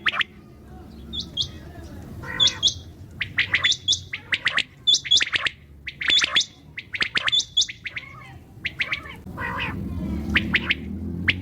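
Common quail calling: short, sharp chirped notes repeated in quick clusters, several a second, over a low steady background rumble.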